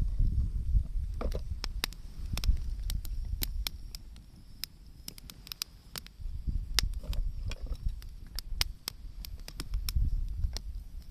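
Wood campfire crackling, with sharp, irregular snaps and pops from the burning wood over a low rumble.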